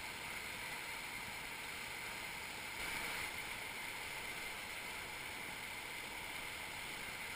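River rapids rushing steadily, with a slight swell about three seconds in.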